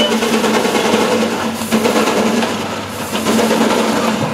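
1907 Avery steam traction engine running under steam, a steady, loud mechanical noise with a constant low tone and occasional short knocks.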